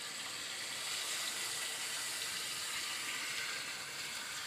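Beef pasanday rolls sizzling steadily in hot oil in a karahi over high heat, a continuous hiss as the meat and onion juices boil off.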